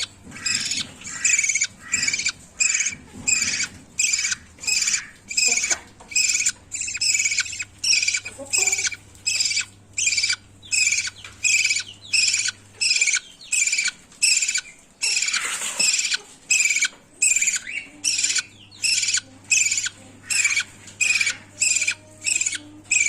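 Budgerigar chicks giving their raspy begging calls in an even rhythm, about two a second, as they are fed.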